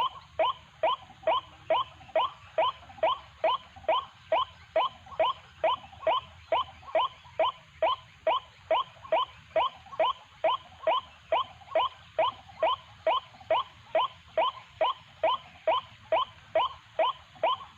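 White-breasted waterhen (ruak-ruak) calling: a monotonous 'ruak' repeated without pause, about two and a half short rising notes a second, in an even rhythm.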